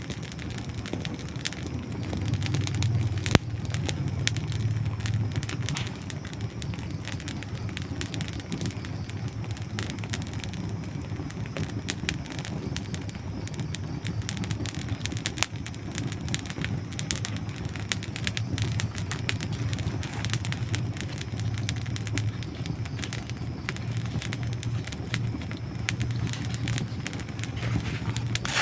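Dry wood burning in a campfire, crackling and popping steadily, with one sharp pop about three seconds in. A low steady rumble runs underneath.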